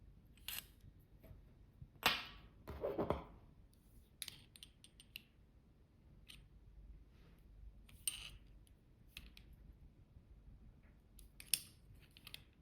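Small aluminum parts and measuring tools being handled: scattered light clicks and metallic knocks, with a louder clatter about two to three seconds in and a sharp click near the end.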